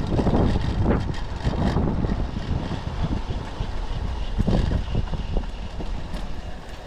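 Typhoon wind buffeting the microphone: a loud, rough rumble that swells and eases in gusts.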